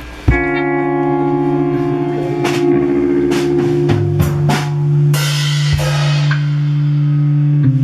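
Live rock band playing loud: held electric guitar and bass notes ring out over drum hits and cymbal crashes, starting suddenly with a big chord.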